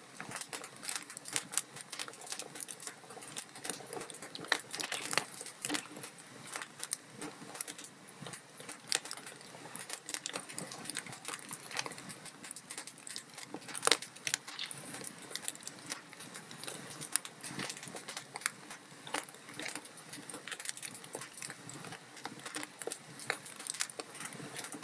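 Log fire crackling in a fireplace: a dense, irregular run of small snaps and pops, with a few louder cracks, the sharpest about fourteen seconds in.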